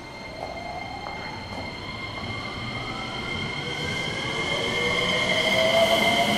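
Electric commuter train pulling out of the platform, its motors whining in several tones that rise slowly in pitch as it speeds up, growing steadily louder as the cars roll past.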